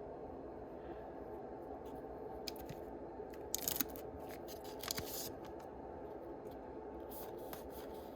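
Foil booster-pack wrapper of Yu-Gi-Oh cards crinkling and tearing as a pack is opened, with two louder crackling spells about three and a half and five seconds in and lighter clicks near the end.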